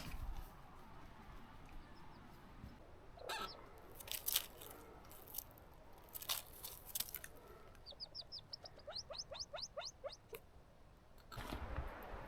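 Scattered footsteps and rustles on the forest floor, the loudest about four seconds in. About eight seconds in, a small songbird sings a quick trill of a dozen or so short, high, rising chirps lasting about two seconds.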